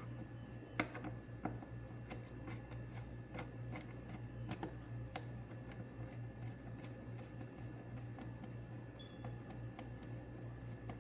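Scattered light clicks and ticks of a hand tool unscrewing the fasteners of an engine cover, most of them in the first few seconds, over a steady low hum.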